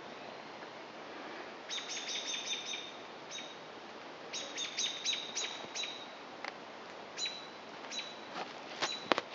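A songbird chirping: two quick runs of about half a dozen short, high notes, then single chirps, with a couple of sharp clicks near the end.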